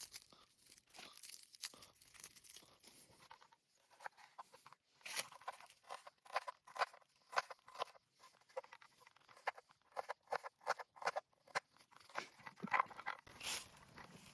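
Irregular crunching and crackling: many sharp clicks in quick, uneven succession, getting busier and louder about five seconds in.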